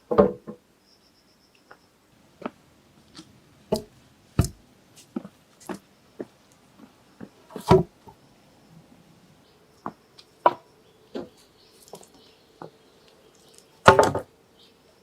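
Irregular knocks and taps from hand work, the loudest about a quarter second in, around four and a half seconds, near eight seconds and near the end, with faint short high chirps in between.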